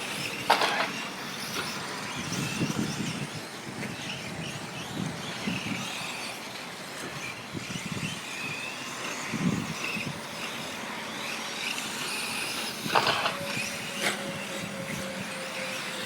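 Several electric 4wd short course RC trucks racing, their motors whining as they accelerate and slow around the track, with a few sharp knocks, two of them close together near the end.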